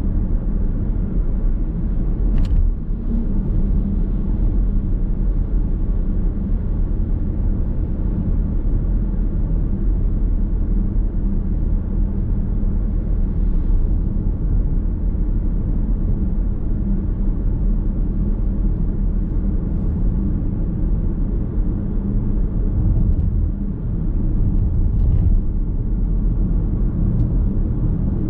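Steady road and tyre rumble with a low hum from a car being driven, heard from inside the cabin.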